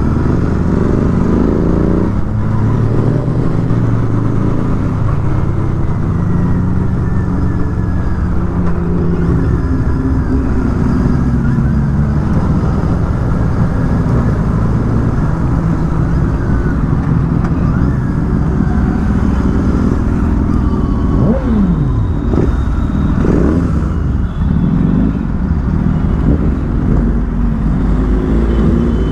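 Motorcycle being ridden, the engine's pitch rising and falling with throttle and gear changes over a steady low rumble of wind and road. About two-thirds of the way in, two quick falling sweeps come from other vehicles going past.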